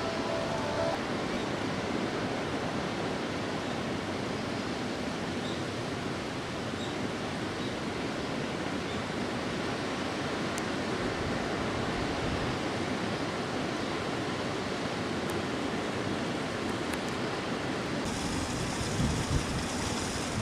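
Steady rushing outdoor noise with no distinct events. Near the end, a faint high band of ringing tones and a few low thumps join in.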